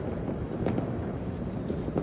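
Distant fireworks going off across the city, a continuous low rumble of many far-off booms with a few sharper cracks standing out.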